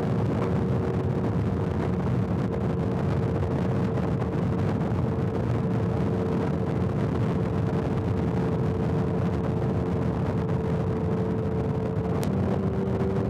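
Motorcycle engine running at a steady highway cruise, with wind and road noise. Near the end there is a click and the engine note steps slightly lower.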